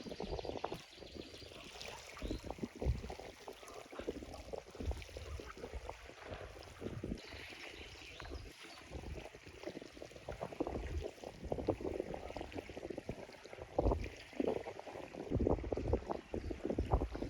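Water splashing and sloshing around a sit-on-top kayak in irregular surges, with the loudest splashes near the end.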